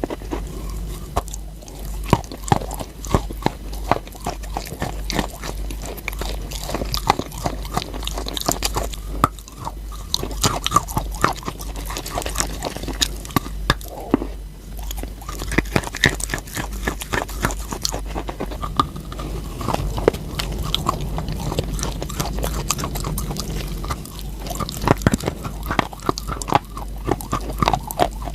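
Close-up biting and chewing of crunchy eating chalk: a dense run of sharp crunches and crackles, several a second, going on without a break.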